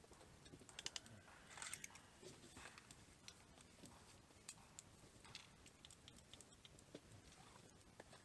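Faint scattered clicks and rustles, like small objects being handled, with a short cluster about one and two seconds in.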